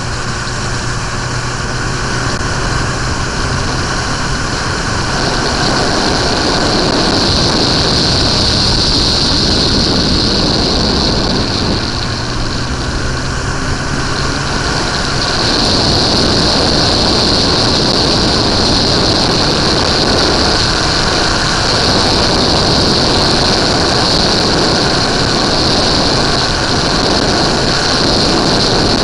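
Suzuki GSX-R 1100 inline-four engine running while the motorcycle is ridden. A loud rushing noise comes in about five seconds in, eases off briefly around twelve seconds and comes back, burying the engine's steady hum.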